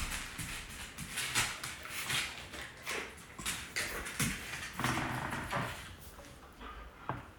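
A dog moving about on the floor after being released, with irregular clicks, taps and scuffles as it goes after and eats a tossed piece of food.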